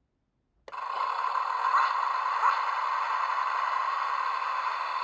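Rubble Bark Yard Deluxe Bulldozer toy playing its electronic engine sound effect through its small speaker, set off by pressing the toy down. It starts suddenly a little under a second in and runs steadily.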